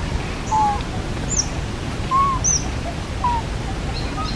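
Birds calling: a short, high chirp that falls in pitch repeats about once a second, with softer, lower arching notes in between, over a steady low rumble of outdoor background noise.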